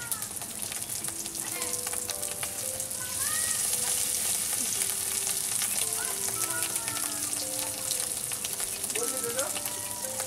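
Fish roe fritters sizzling and crackling as they shallow-fry in hot oil in a kadai. The sizzle grows louder about three seconds in.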